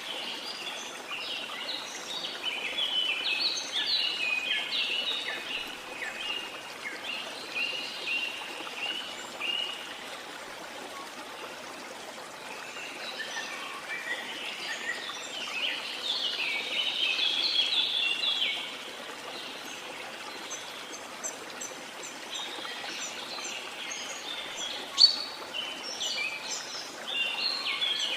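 Rainforest ambience: a steady hiss of rain and running water under bouts of busy, high-pitched bird chirping that come and go three times, with one sharp chirp standing out about 25 seconds in.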